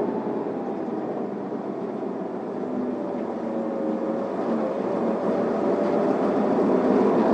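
Isuzu Erga city bus running, heard from inside the passenger cabin: steady engine, drivetrain and road noise that grows louder over the last few seconds, with a faint whine edging up in pitch.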